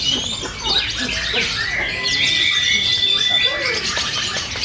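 Several lovebirds chirping and squawking together. One holds a long, steady high-pitched song for about two seconds near the middle, the long-duration song that lovebird breeders select for.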